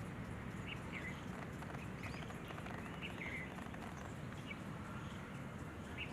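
Short bird chirps, repeated roughly once a second, over a steady low background rumble.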